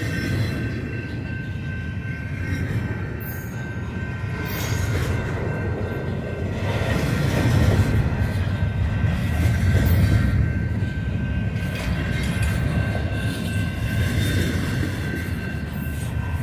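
Double-stack intermodal freight train rolling past: a steady rumble of wheels on rail with scattered clicks, swelling loudest about halfway through, and a few steady high ringing tones held over it.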